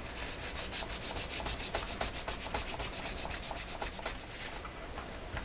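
Rapid back-and-forth rubbing strokes, about eight a second, as a small radio part is scrubbed or polished clean by hand; the strokes die away about four and a half seconds in.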